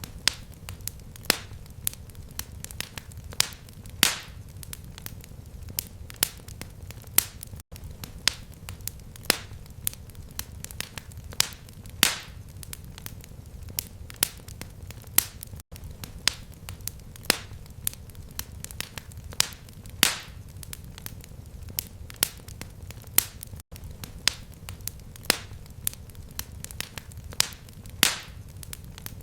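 Fireplace fire crackling: irregular sharp pops and snaps over a low steady rumble of flame. The same pattern of pops repeats about every eight seconds, a looped recording.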